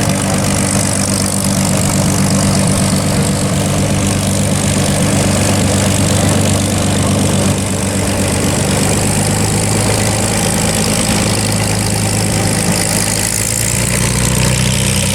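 A World War II propeller warplane's piston engine running steadily at taxi power, a constant low-pitched engine note with propeller noise. Its lowest tones grow a little stronger near the end.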